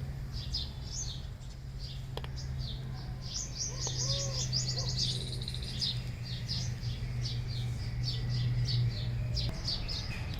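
Small birds chirping, a quick series of short high chirps repeated all through, over a steady low hum that stops near the end.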